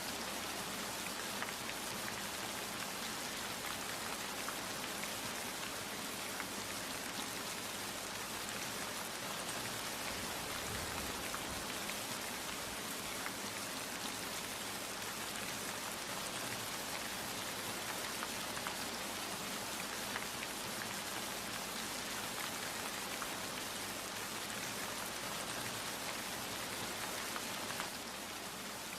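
Steady rain falling, a dense even hiss with fine spattering drops.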